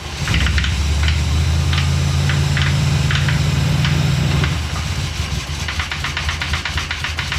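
The 1970 Ford F100's engine running, a steady low drone with irregular sharp ticking over it, which drops in level about halfway through. The knock is one that may be a rod knock.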